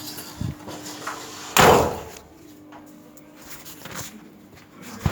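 A door bangs about a second and a half in, the loudest sound, with a few lighter knocks around it over a faint steady hum.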